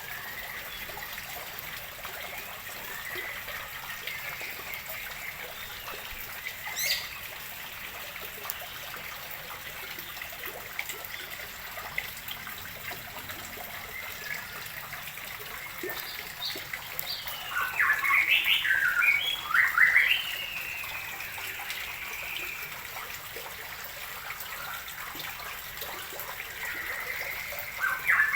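Water trickling steadily into a fish pond, with songbirds chirping over it; a louder run of quick chirping calls comes about two-thirds of the way through and again at the very end.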